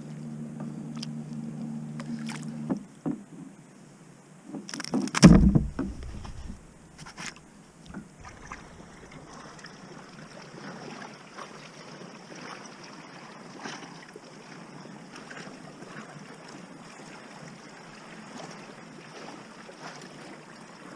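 Water sounds around a kayak on the sea: small splashes, drips and light knocks against the hull. A steady low hum runs for the first few seconds, and a loud knock comes about five seconds in.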